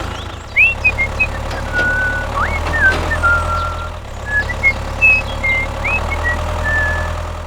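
Engine running steadily with a low drone, with short high chirps and whistled notes over it in a pattern that repeats about every four seconds.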